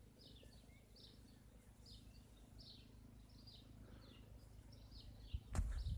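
Faint outdoor ambience with a bird repeating a short high chirp about once every three-quarters of a second. Near the end a sudden low thump and rumble breaks in.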